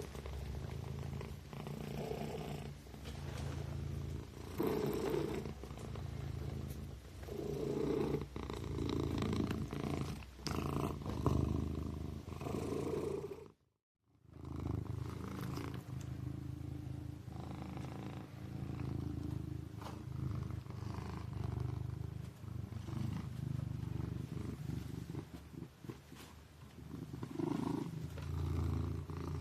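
Kitten purring steadily, swelling and easing every two to three seconds, with a brief cut to silence about halfway through.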